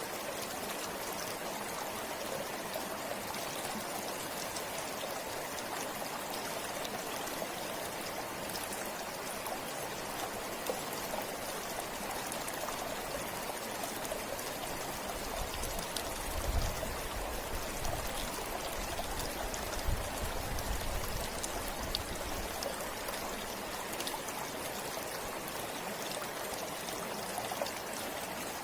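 River water flowing steadily over rocks, a constant rushing noise. About halfway through, a low rumble comes in for several seconds and then fades.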